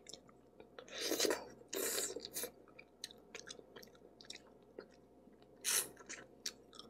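Mouth sounds of someone chewing and biting a boiled chicken wing, in a few short bursts with quiet gaps between.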